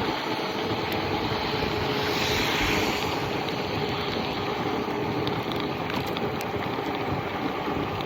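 Wind rushing over the microphone and wet-road tyre noise from a moving e-bike, with a faint steady hum underneath. A swell of hiss rises and fades about two seconds in.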